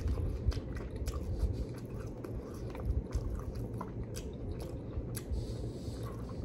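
Close-up chewing of a mouthful of breaded orange chicken in sauce, with many small wet clicks and smacks.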